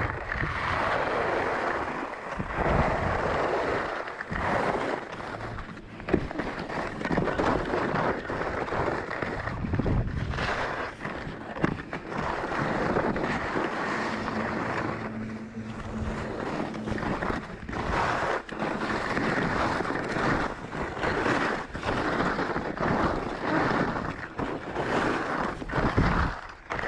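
Skis scraping and hissing over spring snow in repeated swells, as with turns, with wind buffeting the microphone.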